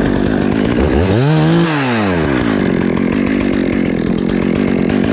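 Two-stroke chainsaw running loud and steady, its engine pitch rising and falling back once about a second in.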